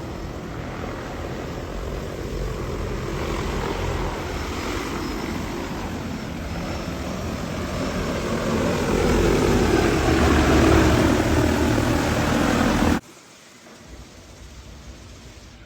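Propellers of a single-seat manned drone running in flight, a dense steady drone that grows louder toward the end and then cuts off suddenly about 13 seconds in, leaving a much quieter background.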